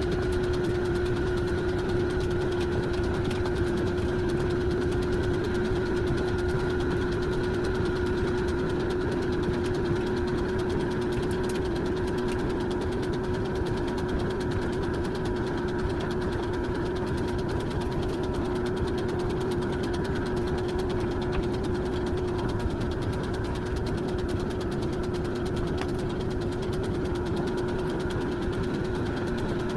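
A motor running steadily, with a constant whine over a fast, rough rattle.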